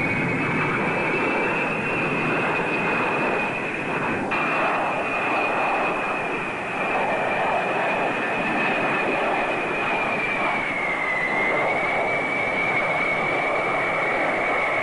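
Aircraft engine noise: a steady rush under a high whine that wavers slightly in pitch and dips briefly near the end.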